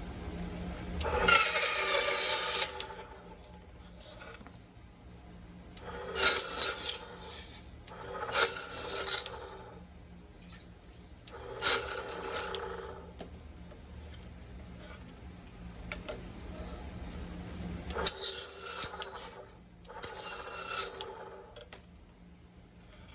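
Cuttlebone being cut: a gritty rasping of a blade through the chalky bone, in six short bouts of strokes with pauses between.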